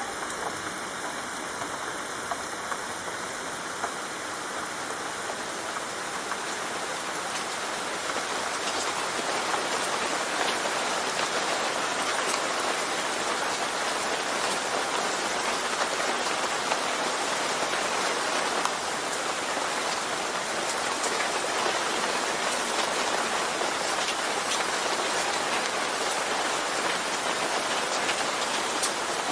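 Steady rain falling, with scattered drops ticking through the hiss; it grows a little louder about eight seconds in.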